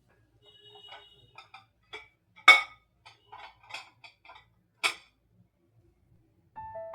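Irregular light clicks and taps of hard objects being handled, with two louder sharp clacks, one about two and a half seconds in and one just before five seconds in.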